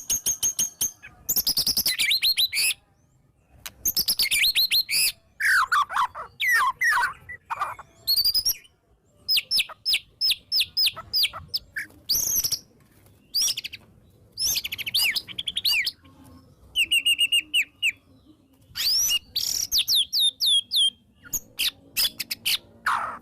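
White-rumped shama singing a loud, varied song in short phrases with brief pauses between them. The phrases are rapid strings of clipped notes, sweeping and falling whistles, and high thin notes: the full, mimicry-rich song a shama gives when worked up.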